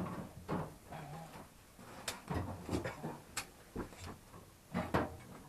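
Irregular clicks, knocks and low thuds with rustling between them, as objects are handled and set down.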